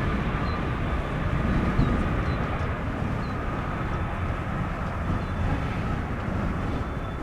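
Jet aircraft engines running with a steady low rumble and a faint high whine that drifts slightly down in pitch, mixed with wind buffeting the microphone.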